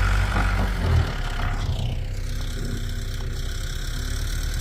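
Vehicle engine running with a steady low rumble, while a rushing noise fades away about two seconds in.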